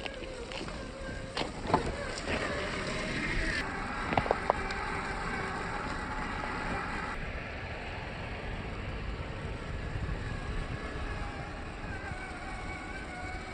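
1/8-scale RC rock crawler driving, its electric motor and drivetrain giving a faint wavering whine over a steady rumble, with a few sharp clicks and knocks about 2 and 4 seconds in.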